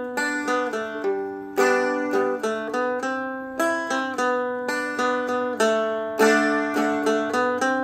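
Seagull Merlin M4, a four-string dulcimer-style instrument, picked in a single-note melody with extra strings sounded along with it. There are several notes a second and a fuller strummed chord now and then.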